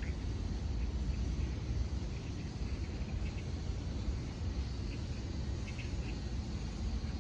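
Outdoor park ambience: a steady low rumble with faint, short high chirps now and then.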